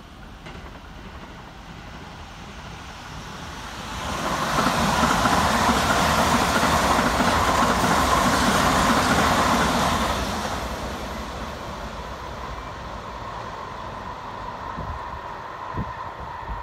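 An eight-car Toei 5500-series electric train accelerating away from a station and passing close by, with running noise and rail-joint clatter. It builds up, is loudest for about six seconds as the cars go past, then fades as it runs away into the distance.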